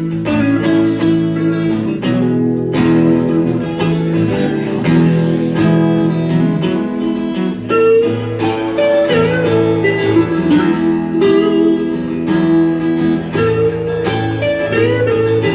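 Live blues band playing an instrumental passage: strummed guitar chords keeping the rhythm, with a lead line of bent, wavering notes over it from about eight seconds in.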